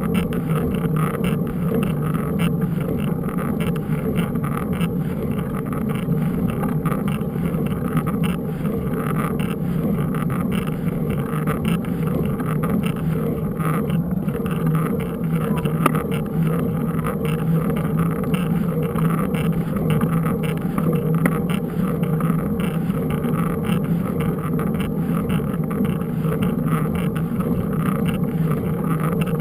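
Steady rumble of a mountain bike being ridden, with many small rattles.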